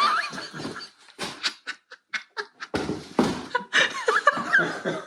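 Laughter after a joke, in a run of short bursts with breaths between.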